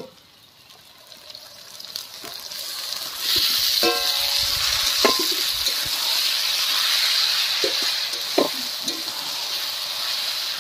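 Chopped capsicum, tomato and onion sizzling in hot oil in a metal wok. The sizzle swells about three seconds in as the vegetables are stirred, with a few short clinks and scrapes of a steel spatula against the pan.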